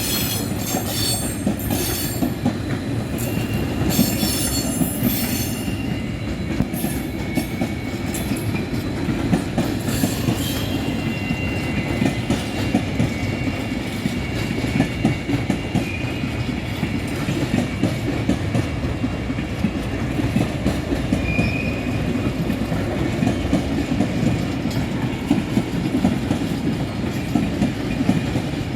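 A train running past on the track, its wheels clattering steadily over the rails, with sharp clicks in the first few seconds and a faint high squeal in the middle stretch.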